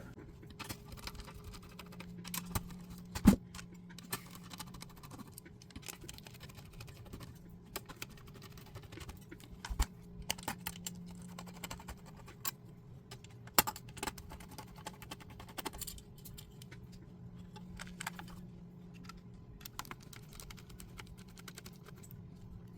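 Scattered small clicks and taps of a T10 Torx screwdriver working the screws out of an Onity electronic door lock's back panel, with the loose screws and metal parts being handled.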